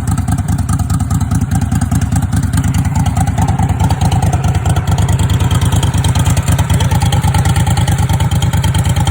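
Cold vehicle engine idling with even, rapid firing pulses, running a little fuller from about four seconds in.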